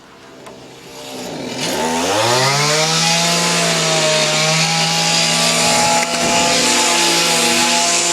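A small electric motor spinning up, its pitch rising for about a second after a quiet start, then running steadily with a loud whir and hiss.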